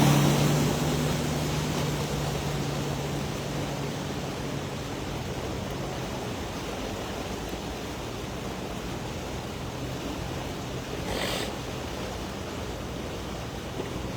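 Car driving slowly through floodwater, heard from inside: steady water and road noise with a low engine hum that fades over the first few seconds, and a brief swell of splashing noise about eleven seconds in.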